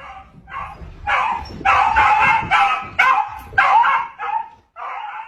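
A dog yipping and barking in a rapid series of short, high calls.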